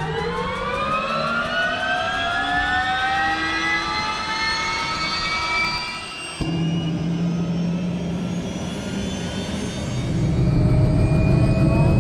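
Robinson R66's Rolls-Royce RR300 turboshaft engine starting, its whine rising steadily in pitch as the turbine spools up. After a sudden break about six seconds in, a steady whine runs over a low hum that grows louder near the end.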